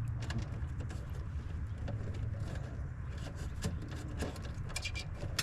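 A steady low hum with many small, sharp clicks and taps scattered through it, with a quick run of clicks near the end.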